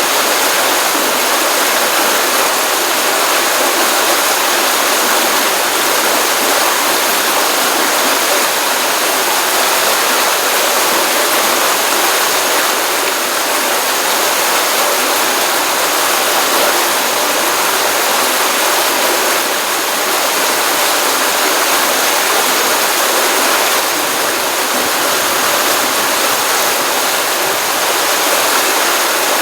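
Small pond stream running, a steady rushing of flowing water.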